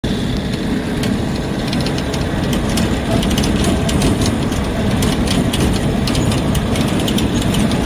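A vehicle's engine running steadily, with scattered small rattles and clicks over it.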